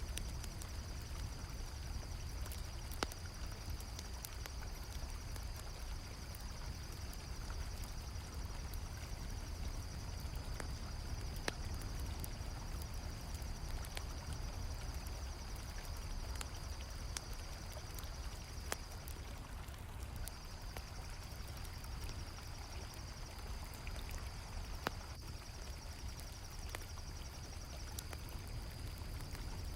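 Crickets chirping in a steady, fast-pulsing trill that breaks off briefly about two-thirds through, over the low rush of a flowing river. A campfire crackles, with a few sharp pops.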